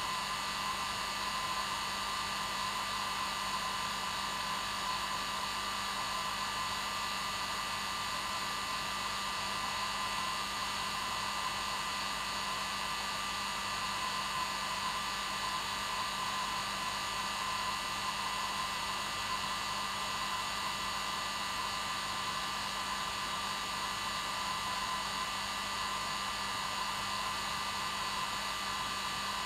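Hair dryer running steadily, an even whooshing blow with a constant motor hum underneath.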